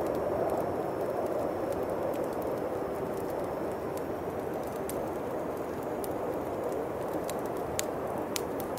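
Howling winter wind blowing steadily, with a bonfire crackling through it in scattered sharp pops, a couple of louder ones near the end.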